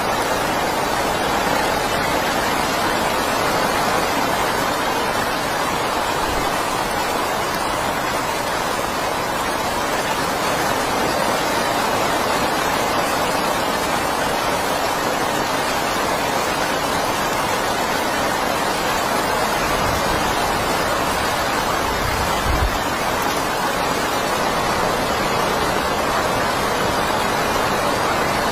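Heavy rain falling in a steady, unbroken hiss. A brief low thump about three quarters of the way through.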